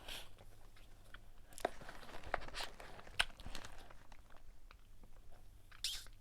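A person chewing, with faint, scattered crunches and mouth clicks.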